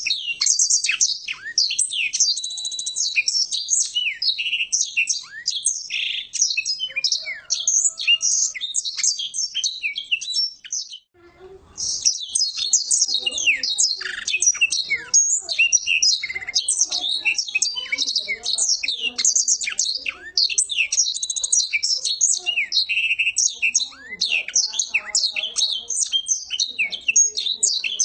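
Blackthroat (black-throated canary) singing a long, rapid, unbroken twittering song of high chirps and trills, with one short pause about eleven seconds in. This is the extended rolling song ('ngeroll') that keepers prize in a bird in full song.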